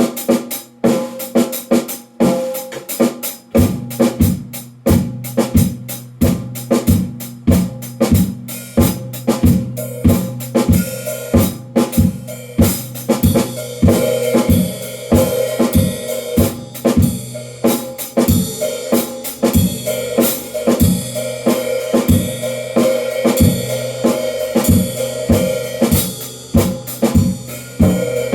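Drum kit played in a steady beat, with bass drum and snare strokes about two a second and lighter hits between. Cymbals or hi-hat join in from about halfway, over a steady low hum.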